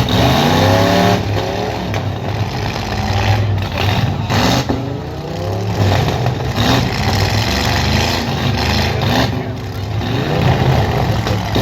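Loud truck engine running hard at high revs, its pitch sweeping upward several times.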